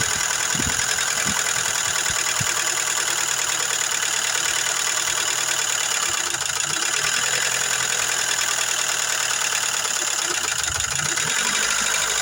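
Car engine idling steadily with the tapping of noisy hydraulic valve lifters, which the owner is trying to quiet by running the engine on light oil.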